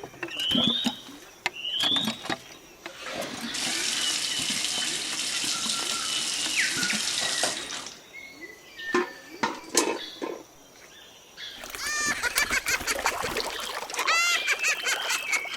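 Water running for about four seconds in the middle, as a steady hiss that cuts off suddenly. Short rising chirps come near the start, scattered clicks follow, and a run of chirping calls comes near the end.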